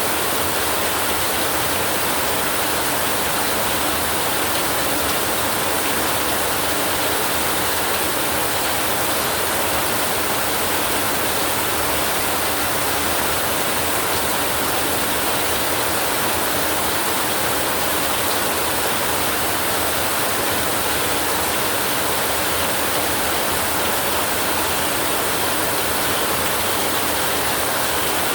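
Steady heavy rain, an even, unbroken hiss with no thunder or other events.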